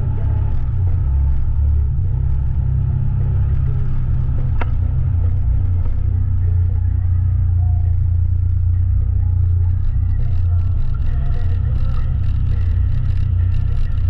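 Side-by-side UTV engine and drivetrain running steadily while under way, heavy at the low end. There is one sharp knock about four and a half seconds in, and a hissing, crackling noise joins from about ten seconds in.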